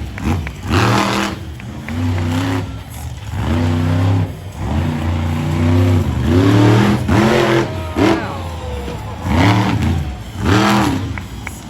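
Monster truck engine revving in repeated throttle bursts, its pitch rising and falling with each one, every second or two.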